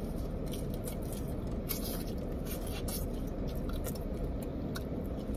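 Close-up chewing of food, with scattered small wet mouth clicks, over a steady low hum.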